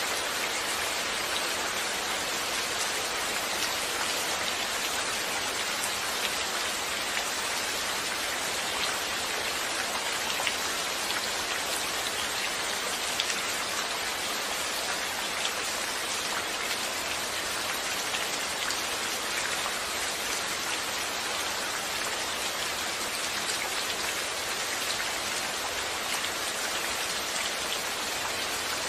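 Steady rain falling, with many fine drops pattering on a surface as an even hiss.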